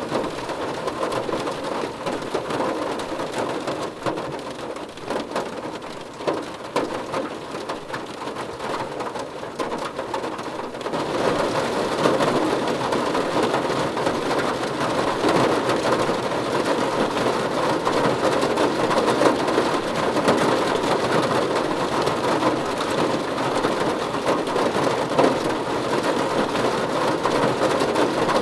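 Steady rain falling, a dense patter of drops on a surface. About eleven seconds in it grows louder and heavier, then holds there.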